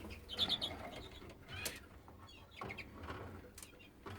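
Caged canaries giving short high chirps, a quick run of notes about half a second in and another near the middle, amid light wing flutters, rustling and small clicks.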